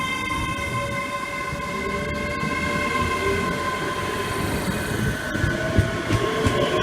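A train moving at the platform: a steady high-pitched whine made of several held tones over a low rumble.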